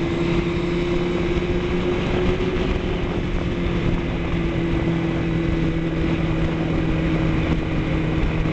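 Vehicle engine running steadily at cruising speed, its drone rising slightly over the first couple of seconds and then holding, over road and wind noise.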